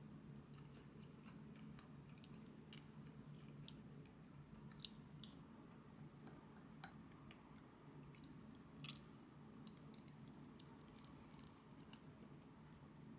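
Faint chewing with scattered small clicks of eating over a low steady hum.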